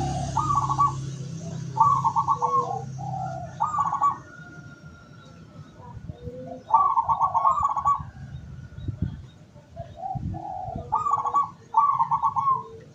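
Zebra dove (perkutut) cooing: about seven short phrases of rapid, rolling coos, each under a second, with pauses between them.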